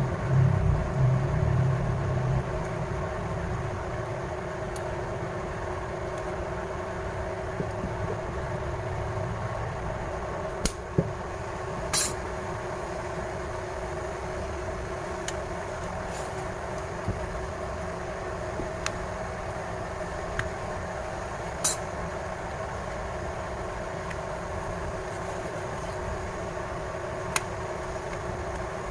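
Plastic back panel of a Samsung Galaxy M01 Core being pried off its frame, giving a few scattered sharp clicks as the clips let go, over a steady background hum.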